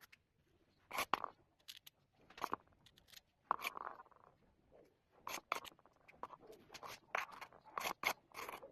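A series of short, irregular scraping and snipping strokes, about a dozen over several seconds, like hand work on a craft material.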